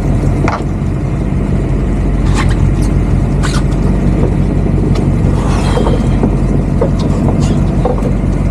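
Boat's inboard engine running steadily, a constant low drone, with a few faint clicks and knocks on top.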